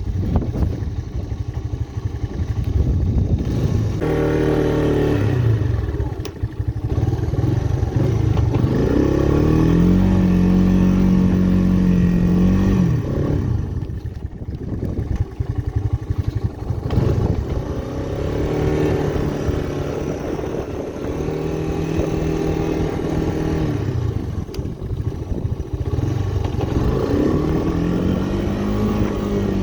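Honda ATC Big Red 250ES three-wheeler's single-cylinder four-stroke engine working while plowing snow, revving up, holding high revs for a few seconds, then dropping back, several times over. The longest high-rev stretch comes early, lasting about four seconds.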